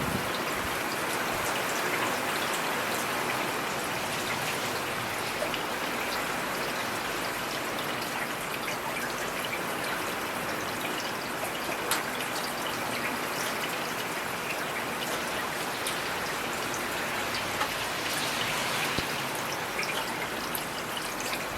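Steady rainfall, an even hiss of rain with occasional individual drops ticking.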